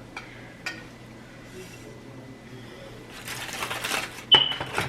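Tableware being handled: a faint click, then a stretch of rustling and a sharp clink with a short ringing tone near the end, as a dish or container is set down.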